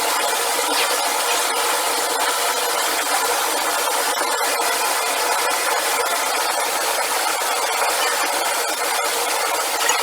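Steady machinery din of a factory production line, an even hiss-like noise with faint rapid clicks running through it.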